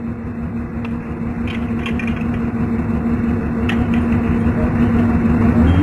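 Komatsu PC200 excavator's diesel engine running steadily, with a few faint clicks. Near the end its note shifts and it gets a little louder.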